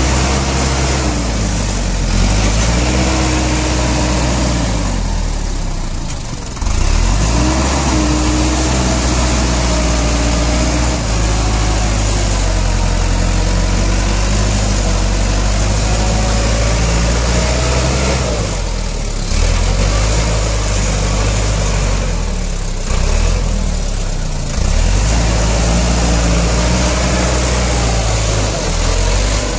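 Heavy diesel machinery engine running, its revs rising and falling over and over as it works, dropping away briefly a few times.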